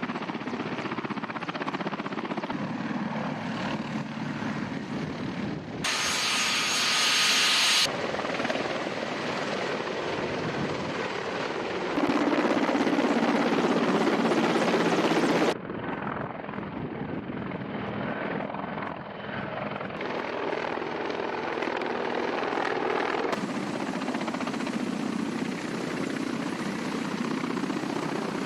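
Military helicopters' turbine engines and rotors running in flight, in a string of shots that change abruptly every few seconds, some louder and brighter than others.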